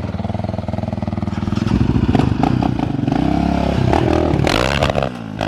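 Off-road vehicle engine revving, its pitch rising and falling several times as it is ridden.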